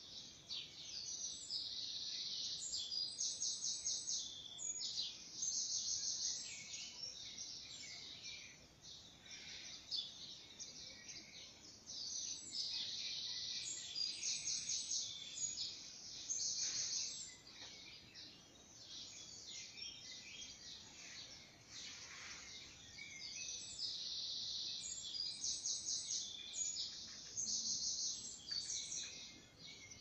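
Songbirds singing: high, fast trilled phrases and chirps that come in bursts a few seconds long with short pauses between, over faint outdoor background noise.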